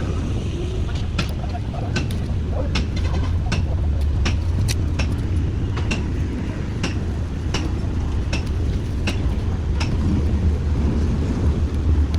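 Steady low engine-like rumble with sharp taps repeating irregularly, about one or two a second.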